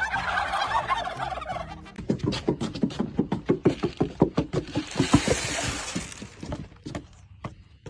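Turkey gobbling: a rapid run of pulses starting about two seconds in and fading near the end.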